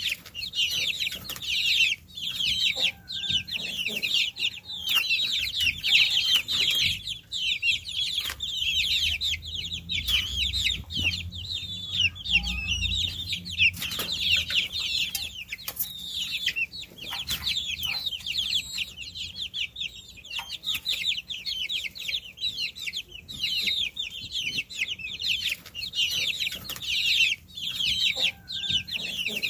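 A brood of baby chicks peeping without pause: many short, high chirps, each falling in pitch, overlapping one another.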